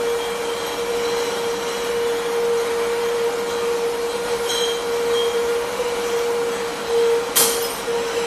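Industrial bottle washing machine running: a steady motor hum over a constant hiss, with a sharp click about seven seconds in.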